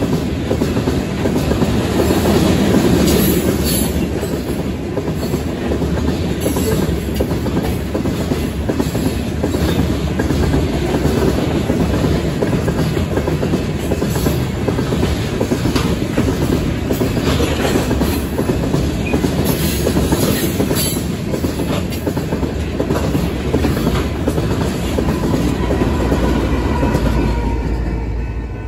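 Covered hopper cars of a freight train rolling past at speed, their steel wheels clattering over the rail joints with a steady rumble. The sound drops away near the end as the last car goes by.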